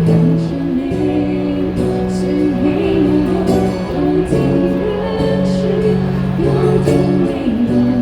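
Live street-band music with a singing voice: a wavering vocal melody over long held low bass notes that change every second or two.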